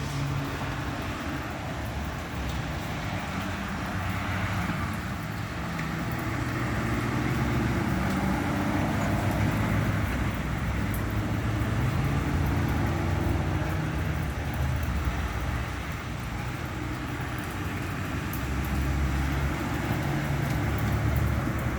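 Road vehicles running, a low engine rumble that swells and eases over several seconds under a steady hiss of noise.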